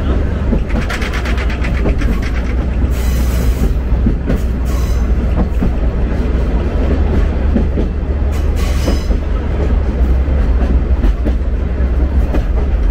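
Sagano Romantic Train running, heard from aboard: a steady deep rumble with wheels clattering over the rails. Two brief high-pitched hissing or squealing bursts come about three and eight seconds in.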